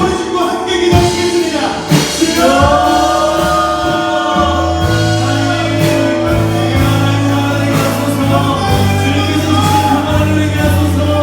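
Church worship band playing a gospel praise song: several voices singing over a sustained bass line, with a few sharp drum or cymbal hits.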